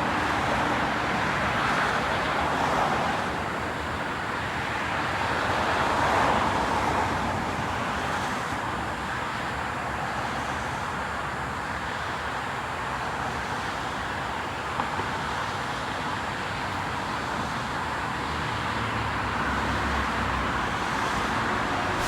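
Steady rushing vehicle noise, swelling slightly about two and six seconds in.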